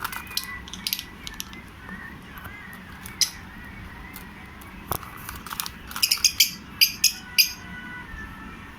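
Fischer's lovebirds giving short, shrill chirps, scattered at first, then a rapid cluster of loud chirps about six to seven and a half seconds in.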